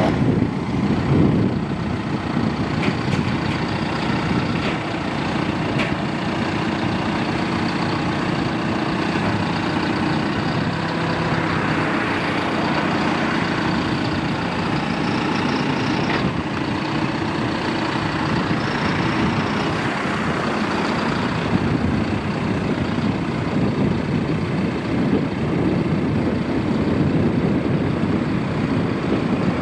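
The turbocharged four-cylinder John Deere diesel of a 5100E tractor running steadily, busier and a little brighter for a stretch in the middle.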